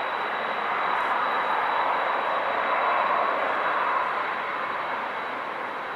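Airbus A330-300's Rolls-Royce Trent 772B turbofans on approach: a steady jet rush with a thin high whine over it. It swells to a peak about three seconds in, then eases off.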